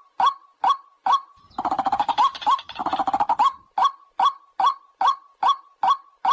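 White-breasted waterhen calling: a steady series of short, sharp notes, about two to three a second. From about one and a half seconds in, a rapid run of harsh, rising calls crowds in for about two seconds, then the steady series picks up again.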